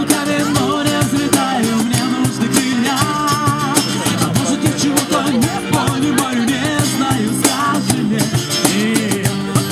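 Band music in an instrumental passage: guitar over a steady percussion beat, with a melodic lead line that wavers in pitch.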